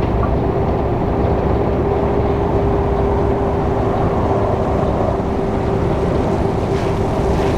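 Street-watering truck running past, a steady heavy engine noise with a constant whining tone over it.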